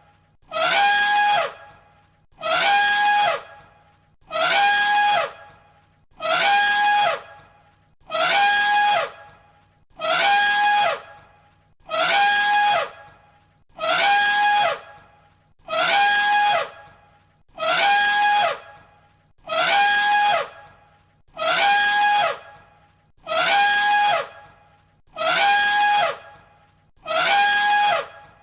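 An animal's loud, pitched cry, each held steady for about a second and then dropping in pitch, repeated identically about every two seconds, some fifteen times.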